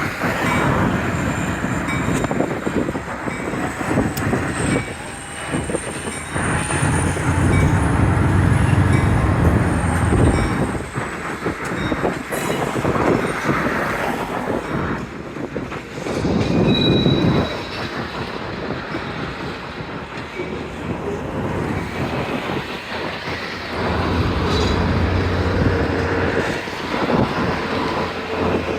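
Freight cars rolling past on yard track, with repeated clanks and knocks from the wheels and couplers and a steady rumble. A high wheel squeal rises and falls for several seconds in the first half.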